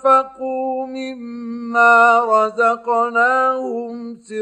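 A man's voice reciting the Quran in the melodic, drawn-out mujawwad style: long held notes with ornate runs and bends in pitch, and brief breaks for breath.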